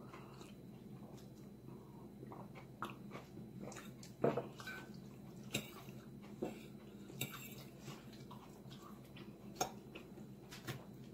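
A person chewing food close to the microphone, with scattered short smacks and clicks, the loudest about four seconds in.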